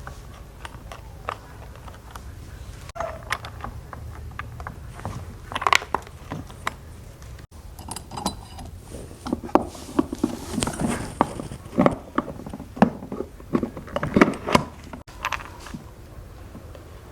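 Irregular clicks, taps and light metallic rattles of small parts and hand tools being handled during a repair, busiest in the second half.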